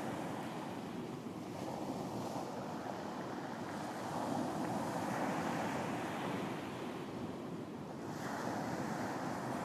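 Surf washing onto a beach, the waves swelling and easing every few seconds, with wind buffeting the microphone.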